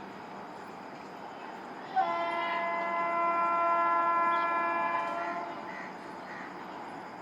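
Indian Railways locomotive horn: one long blast of about three seconds, starting suddenly and then fading out, from a train approaching the station at speed.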